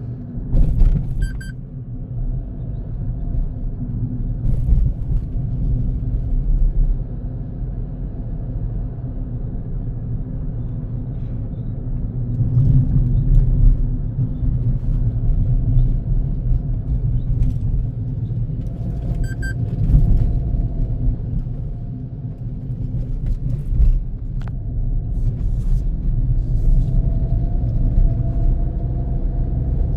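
A car driving, with steady low road and engine rumble and a few brief clicks and knocks.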